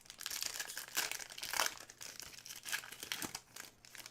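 Crinkling and rustling of plastic trading-card pack wrapping being handled, in short irregular crackles.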